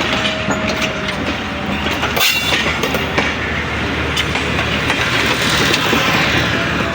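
Passenger train coaches rolling past, wheels clicking over the rail joints.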